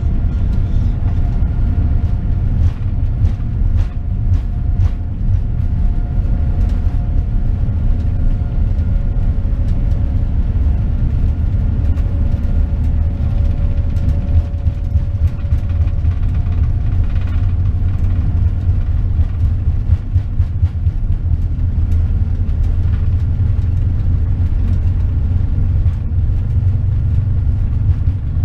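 Boeing 787-9 cabin noise: a steady, loud low rumble with a few faint steady tones and light scattered rattles.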